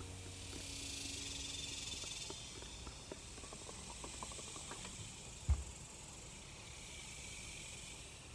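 A last low note rings on and fades away over the first two seconds, over a steady hiss. After it the hiss carries on with scattered small clicks and a single low thump about five and a half seconds in.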